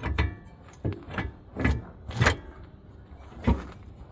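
Irregular metal clanks and knocks, about six in all, the sharpest about three and a half seconds in, from a wrench turning an outer tie rod on a 2004 Ford F-150's steering linkage.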